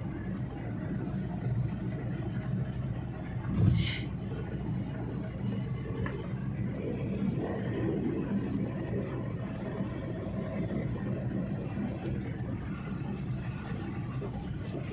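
Steady engine and road rumble inside a moving car, with a brief louder swish about four seconds in.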